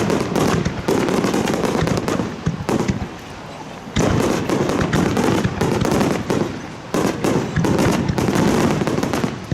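Aerial fireworks going off in a rapid barrage, a dense run of bangs and crackles. It eases into a brief lull about three seconds in, then picks up again about a second later and keeps going.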